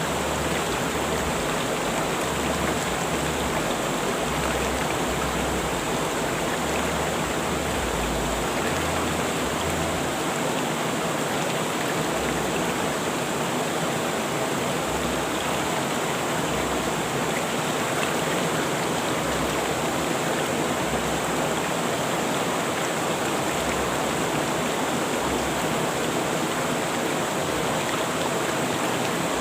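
Rushing river water flowing steadily, an even wash of noise with no breaks.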